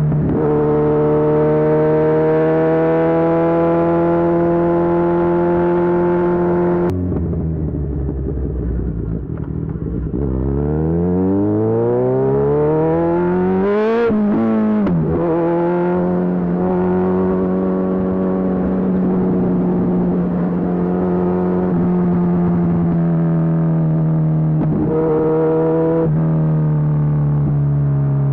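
Kawasaki Z1000SX's inline-four engine through a Lextek full exhaust, heard on the move. It runs at steady cruising revs, backs off about a quarter of the way in, then revs climb steeply to a peak about halfway and drop sharply at a shift. After that it settles back to a steady cruise.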